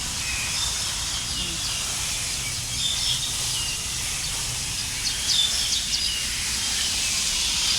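Steady hiss of a park fountain's falling water, with a few faint, high bird chirps about three and five seconds in.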